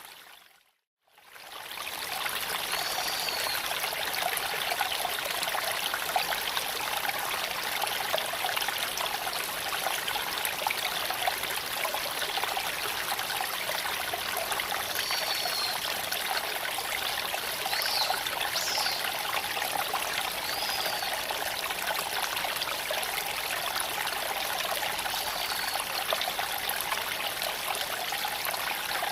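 Creek water flowing over stones: a steady rushing trickle that briefly fades to silence about a second in and then returns. A few faint, high bird chirps sound over it now and then.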